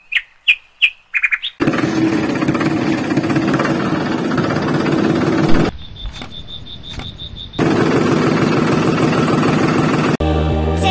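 Several short bird chirps, then a steady vehicle engine running, which drops out for about two seconds to a quieter high whine with faint even ticks before the engine sound returns. Music starts just before the end.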